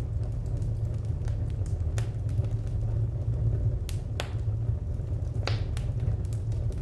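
Wood fire crackling: a steady low rumble with a few sharp pops, the clearest about four and five and a half seconds in.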